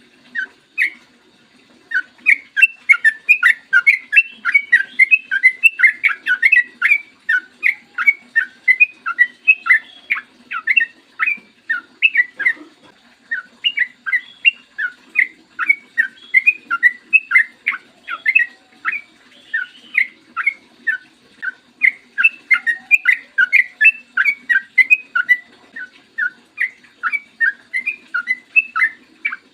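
Yellow-vented bulbul (trucukan) singing a long, fast run of short chattering notes, several a second, with a brief break about twelve seconds in. A faint low hum sits underneath.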